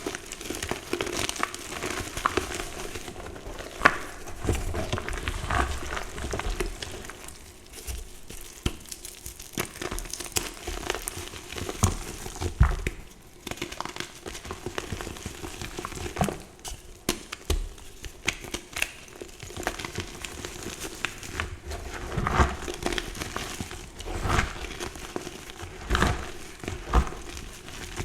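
Reformed gym chalk being crushed, with a dense run of dry crackles and crunches and a louder crunch every second or so as pieces give way.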